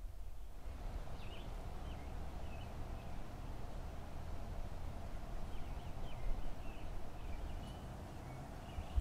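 Small birds chirping in short, high, scattered calls over a steady low rumble.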